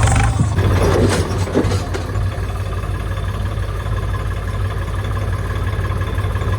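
Tractor diesel engine running steadily at low revs, with some rattling and clatter in the first couple of seconds.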